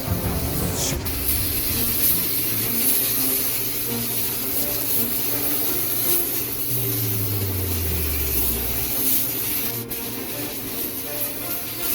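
Air spray gun hissing steadily as it sprays automotive primer onto the truck's body panels.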